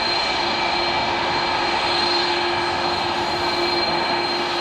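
Steady flight-deck noise of an airliner in flight: an even rush of air with engine hum and a few constant whining tones.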